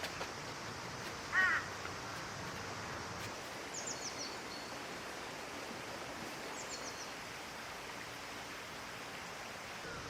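Outdoor ambience with birds: one short call about a second and a half in, then two quick runs of three or four high chirps, near four seconds and again near seven.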